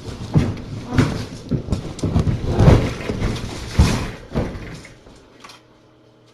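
Irregular knocks and thuds of handling and movement in a room, dying away about five seconds in to a faint steady hum.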